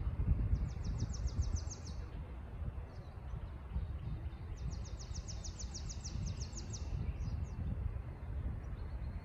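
A small songbird singing two rapid trills of quick, evenly repeated high notes, the first about a second and a half long, the second longer, near the middle, over a steady low outdoor rumble.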